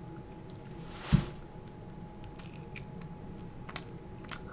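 Chewing a bite of thin, crispy pizza crust: one crunch about a second in, then a few faint crunching clicks.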